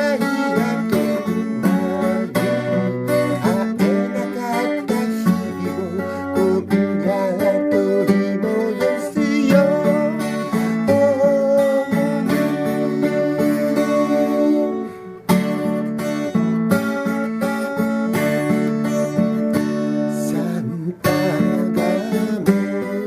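Music: acoustic guitar strummed chords, with brief breaks about 15 and 21 seconds in.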